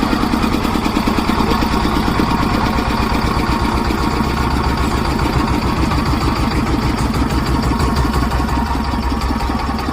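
Old diesel engine running steadily after a hand-crank start, a fast even beat of firing strokes.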